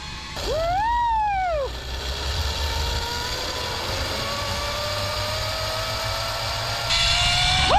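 Zipline trolley pulleys running along the steel cable, a thin whine that rises steadily in pitch as the rider gains speed. Early on, a short tone rises and falls over it. The whole sound gets louder near the end.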